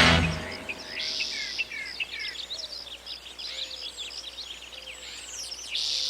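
A chorus of many birds calling at once: quick chirps and short downward-sliding whistles overlapping throughout. A short, harsh buzzy call comes about a second in and again near the end.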